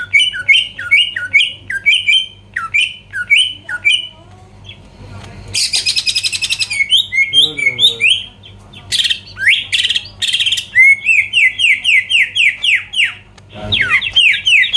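Cucak ijo (greater green leafbird) singing in full, loud song: quick runs of sharp slurred chirps and squawks, a harsh buzzy rattle about six seconds in, and fast trills of repeated down-slurred notes in the second half.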